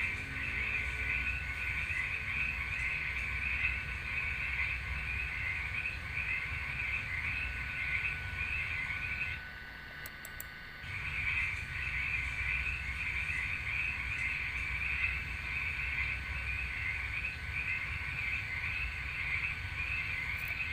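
A chorus of frogs croaking in a dense, fast-pulsing trill. It breaks off for about a second and a half near the middle, then starts again.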